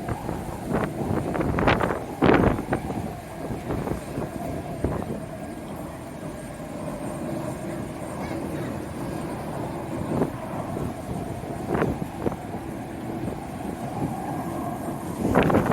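Strong wind buffeting the microphone in gusts, over the steady hum of a jet airliner's engines on the airport apron.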